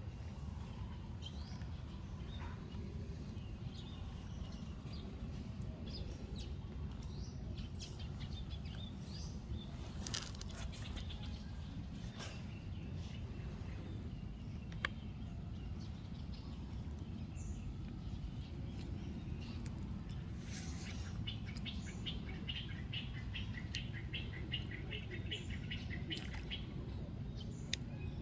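Birds chirping over a steady low background noise, with a quick run of repeated chirps, about three a second, over the last several seconds.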